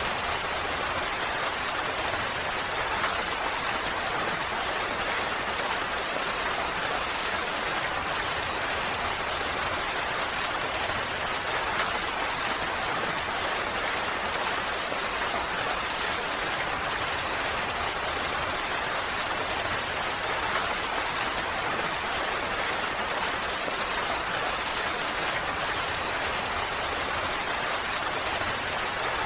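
Steady rainfall, a dense even patter of raindrops on surfaces with a few slightly louder individual drops.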